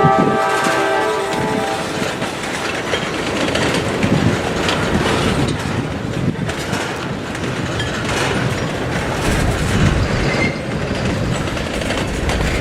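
Freight train passing close by: the locomotive horn's chord ends about a second and a half in, then the railcars roll past with a steady rumble and clicking wheels over rail joints.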